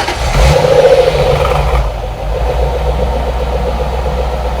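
2005 Ford Thunderbird's 3.9-litre DOHC V8 running, louder for the first couple of seconds, then settling to a steady idle.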